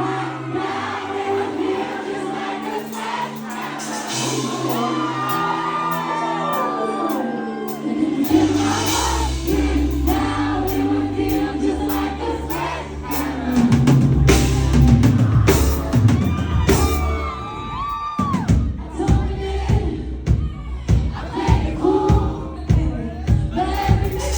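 Live pop concert heard through the crowd: amplified music with deep held bass notes and a singer's voice, with audience shouts. A steady drum beat of about two beats a second comes in about three quarters of the way through.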